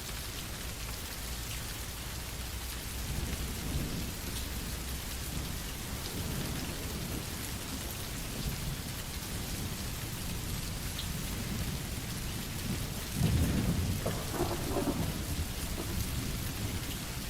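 Steady rain falling, with low rolls of thunder; the loudest rumble comes about thirteen seconds in.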